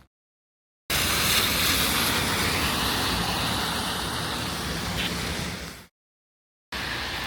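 Rain hissing steadily on wet city pavement, with tyre and traffic noise from the wet road. It cuts in sharply about a second in and stops abruptly before a short gap of dead silence, then a quieter stretch of rain and traffic starts near the end.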